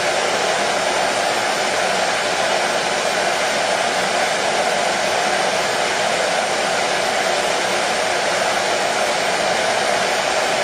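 Hair dryer running steadily: an unbroken, even whoosh of blowing air with a stronger mid-pitched hum within it.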